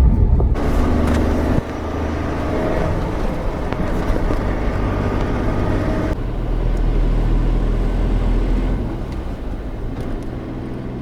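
A vehicle's engine running steadily, changing abruptly a few times.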